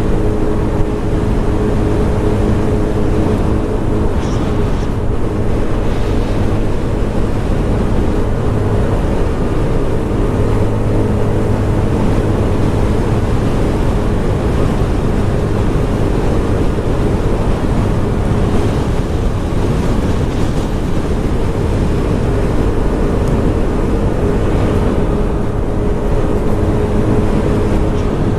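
Scomadi TT125 scooter's 125cc engine running at a steady pace while riding, with wind rushing over the microphone.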